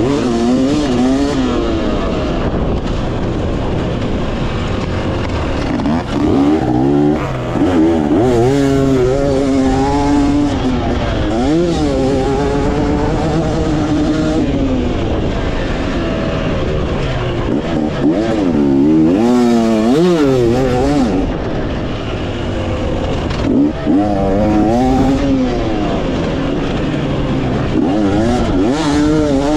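Two-stroke dirt bike engine of a 2018 Yamaha YZ250X being ridden hard around a motocross track, its pitch climbing and dropping again and again as the rider opens the throttle, shifts and rolls off, over a steady rush of wind and track noise.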